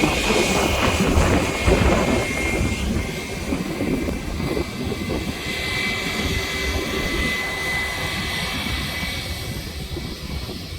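Airbus A320 jet engines at takeoff power: a steady rumble with a high whine, slowly getting quieter.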